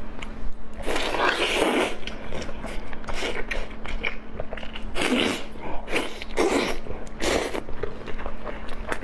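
A person eating close to the microphone: repeated bites and chewing sounds, several per second at times.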